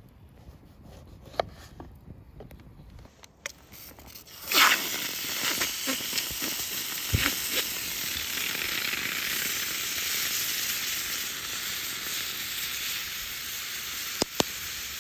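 Food put into a hot pan and frying: a few light knocks, then about four and a half seconds in a sudden loud sizzle that carries on steadily and dies down near the end.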